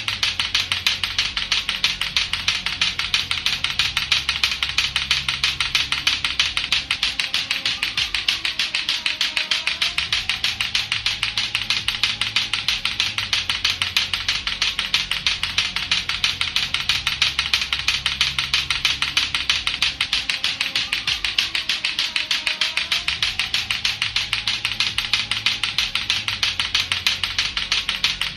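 Latto-latto clacker toy, two hard plastic balls on a string knocking together in a fast, steady, unbroken clacking, over background music with a repeating bass line.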